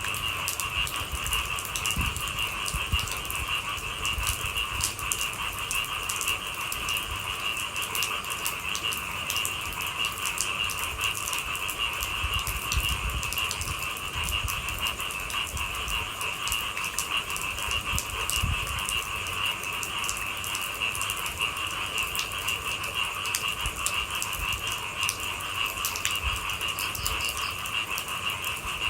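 Steady night chorus of calling animals, holding two constant pitches, one high and one lower, with faint rain ticking over it.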